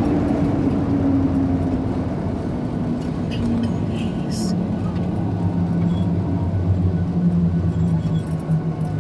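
An engine running with a steady low rumble, its hum slowly dropping in pitch, with faint voices in the background.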